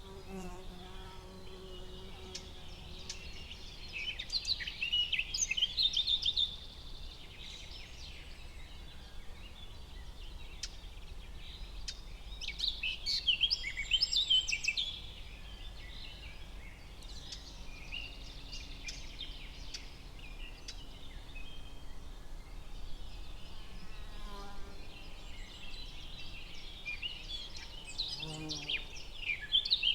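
Forest ambience: several songbirds chirping and singing in three louder spells, about four seconds in, around twelve to fifteen seconds, and near the end, over a steady low background noise.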